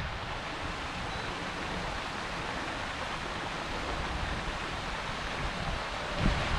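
Steady splashing hiss of a pond fountain spraying water. A short low thump comes near the end.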